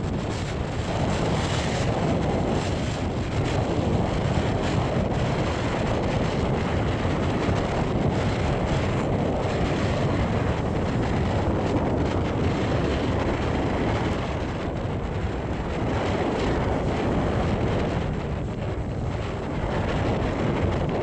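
Storm-force wind blowing hard against the microphone over breaking sea surf, a steady, dense rushing noise with slight swells and dips.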